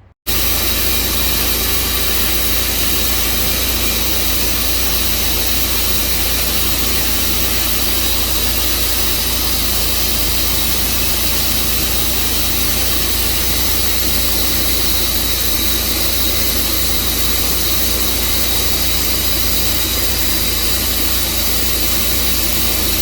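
Tru Cut band sawmill running, its gas engine holding a constant, steady drone. The sound starts and stops abruptly.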